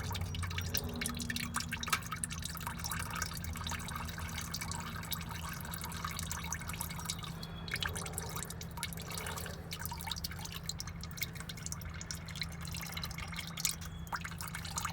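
Used engine oil dripping and trickling into a drain pan, a dense, irregular patter of drops, with a low steady hum underneath.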